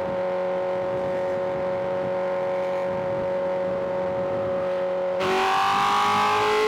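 Inline-four sport bike engine running at steady revs, then about five seconds in the throttle opens: the engine gets louder and its note climbs steadily in pitch as the bike accelerates.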